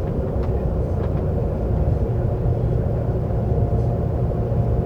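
Seoul subway train running, heard from inside the car: a steady low rumble of wheels on the track and traction motors, with a faint hum and a few light ticks.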